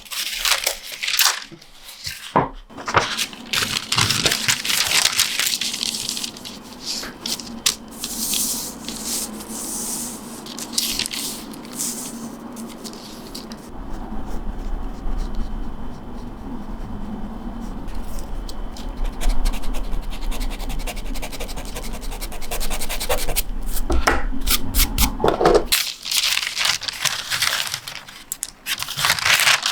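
Close-up scraping and rubbing from linocut printmaking work, with many small clicks, strongest near the start and near the end. A steadier rubbing stretch with a low rumble runs through the middle and stops suddenly about four seconds before the end.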